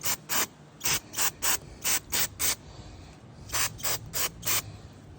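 Short bursts of spray cleaning out a lawn mower carburetor from the top, about a dozen quick puffs in three runs.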